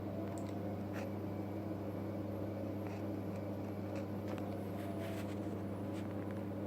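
Electrolux WD41A84160 washing machine running with a steady low hum during its rinse stage, with a few faint clicks.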